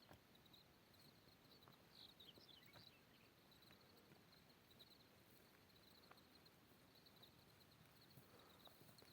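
Near silence: faint outdoor ambience with soft, high chirping repeating throughout, and a short cluster of falling chirps about two seconds in.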